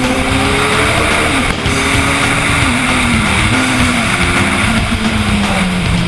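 Kawasaki Z1000 inline-four engine running through an Akrapovic exhaust, its note falling slowly in pitch with a few small dips as the revs come down.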